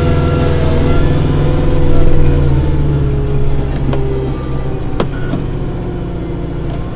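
Kubota tractor's diesel engine running steadily, swelling a little about two seconds in and then easing back. A single sharp click about five seconds in.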